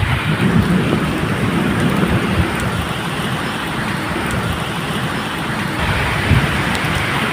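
Steady medium rain with scattered drop ticks, under a low rolling rumble of thunder that swells and fades.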